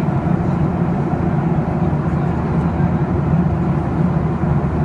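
Steady, loud cabin drone inside a Boeing 737-800 airliner: the CFM56 jet engines and airflow heard from a window seat, even and unchanging.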